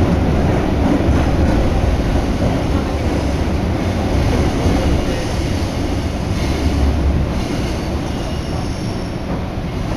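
JR Yamatoji Line commuter train running through an underground tunnel, heard from inside the carriage: a steady, loud low rumble of wheels on rails that eases slightly as the train slows toward its stop. Faint high squeals come in over the second half.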